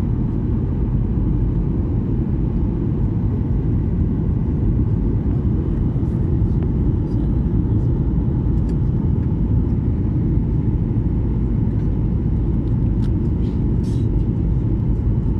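Airliner cabin noise on the approach to landing: a steady low rumble of engines and airflow with a faint steady whine above it. A few small clicks come near the end.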